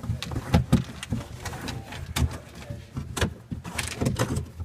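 Irregular clicks and knocks as the screws on a kayak's foot rest are undone by hand, the foot-rest fittings rattling against the hull.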